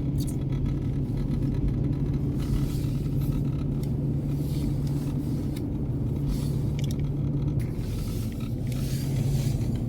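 Steady engine and road drone inside a moving car's cabin, with a low, even hum.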